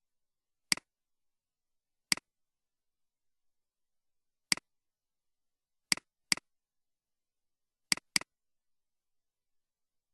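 Computer mouse clicks: seven single clicks, each a sharp press followed by a softer release, spaced irregularly, with two pairs coming in quick succession about two-thirds of the way through. Between the clicks there is dead silence.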